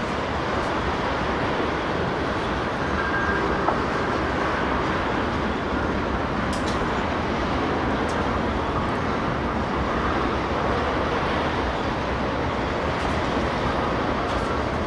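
Ethanol tank cars of a long freight train rolling past: a steady rumble of steel wheels on rail, with a few faint clicks.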